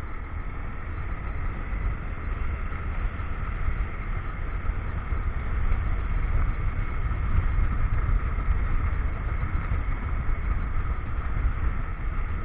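Motorcycle engine running steadily while riding, with a deep rumble of wind and road noise on the action camera's microphone.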